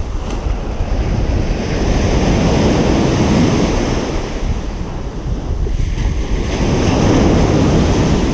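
Ocean surf breaking on a beach: a continuous wash of waves that swells twice, once a couple of seconds in and again near the end.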